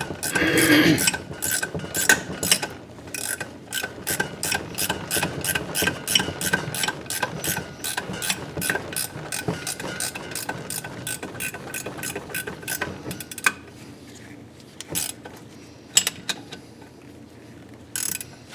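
Ratchet wrench clicking rapidly, about four clicks a second, as a thread-chasing die is worked onto a damaged exhaust stud to clean up its threads; near the end the clicking thins to a few separate clicks.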